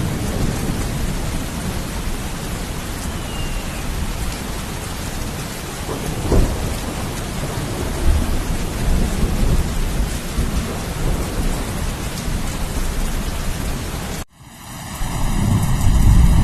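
Steady heavy rain with rolling thunder: a sharp crack about six seconds in, then low rumbles. Near the end the sound cuts out abruptly and a different recording starts with a loud, deep rumble.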